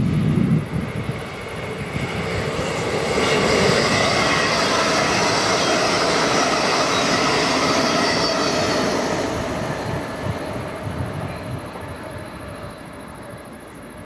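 Train passing by: a rushing noise of wheels and air that swells, holds for several seconds and then fades away. A short low rumble sounds right at the start.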